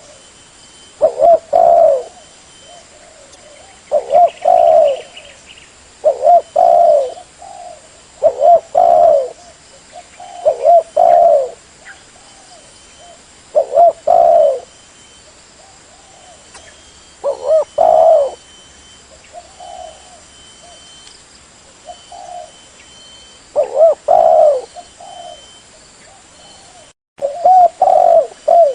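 Spotted dove (tekukur) cooing, played as a lure call: short phrases of two or three low coos, repeated about every two to three seconds, with softer coos in some of the gaps.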